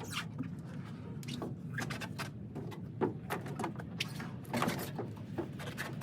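Irregular knocks and clatter over a steady low hum, with faint fragments of voices in the background.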